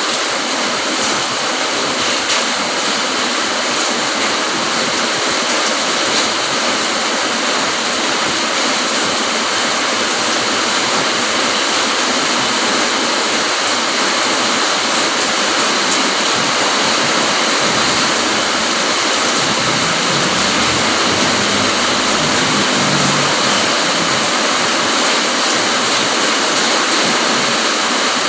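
Steady rain falling, an even rushing patter throughout, with a brief low rumble about three-quarters of the way through.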